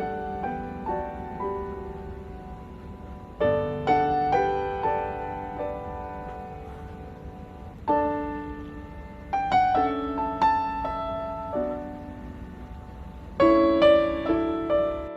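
Background piano music: a slow melody of struck notes that ring and fade, in phrases that begin afresh about every four to five seconds.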